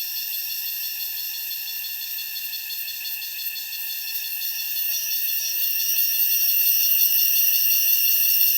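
Cicadas singing in a steady, high-pitched buzzing chorus that grows louder about halfway through.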